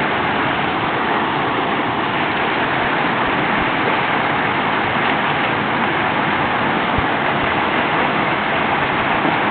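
Creek waterfall pouring: a loud, steady, even rush of falling water.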